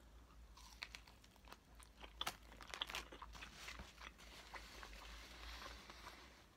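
Faint close-up eating of a bunless double cheeseburger: a bite at the start, then chewing with scattered small mouth clicks.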